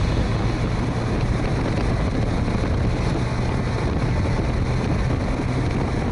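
Heavy wind noise buffeting the microphone on a moving motorcycle, with the engine running steadily underneath.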